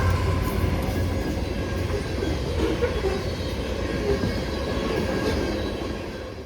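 A train passing close by: a steady rumble and rattle of wheels on the rails that eases off near the end.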